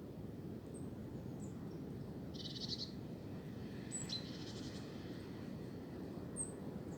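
Wind blowing steadily through trees as a low rumbling rush, with small songbirds calling over it: a few short high chirps and two quick buzzy trills around the middle.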